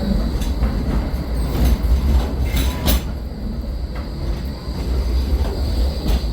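Electric passenger train running on the rails: a heavy, steady low rumble with scattered clicks as the wheels cross rail joints, and a faint steady high whine.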